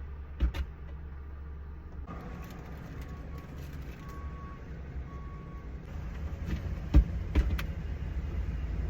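A car running with a steady low rumble, with a few sharp knocks and a row of faint short beeps partway through.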